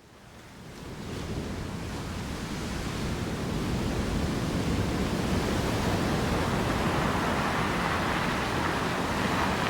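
A steady rushing noise, like outdoor wind or water, fades in over the first few seconds and then holds level.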